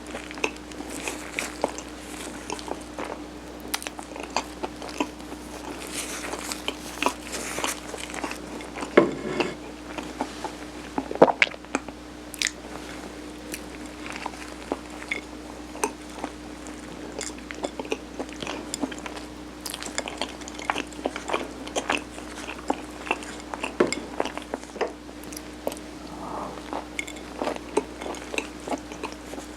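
Close-miked biting and chewing of mung-bean-topped steamed rice cake (nokdu sirutteok): wet mouth clicks and smacks with small crunches, over a faint steady hum.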